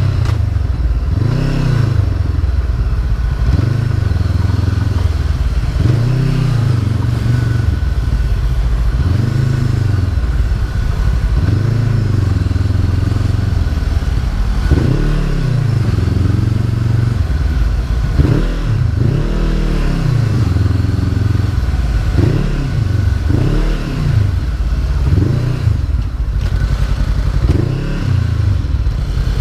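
Honda CB500F parallel-twin engine under way, its pitch repeatedly climbing and dropping as it revs up through the gears and eases off.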